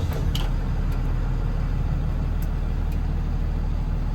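Box truck engine idling steadily with a low rumble, having just been started. A single light click sounds about a third of a second in.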